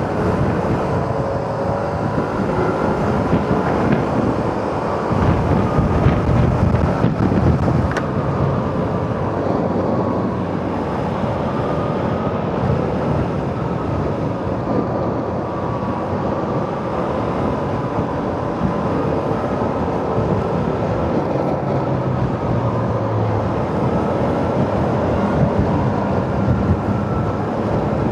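Yamaha XMAX scooter riding along a road: its engine runs with tyre and road noise, and a faint wavering whine sits over it. Wind buffets the rider's microphone.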